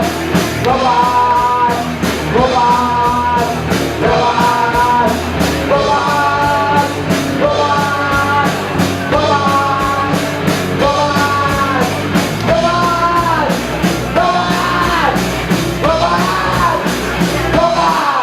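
Live rock music with a sung melody in repeated short phrases over drums and bass, stopping abruptly at the end.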